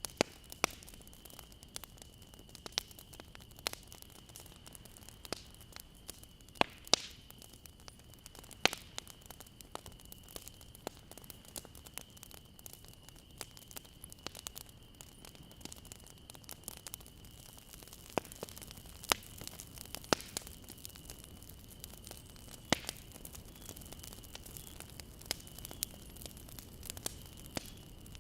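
Wood fire crackling: irregular sharp pops and snaps, a few much louder than the rest, over a low steady hiss. A faint steady high-pitched tone runs underneath.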